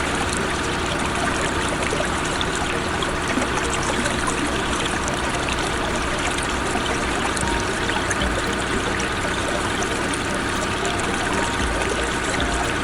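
Steady running water, a continuous trickling, rushing noise.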